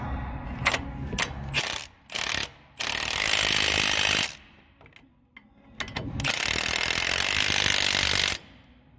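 A mechanical tool running in two bursts of about a second and a half each, a couple of seconds apart, after a few sharp clicks.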